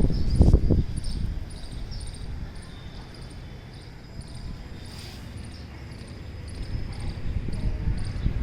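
Cricket chirping steadily in short high pulses, about two a second. A loud low rumbling noise fills the first second, then eases off.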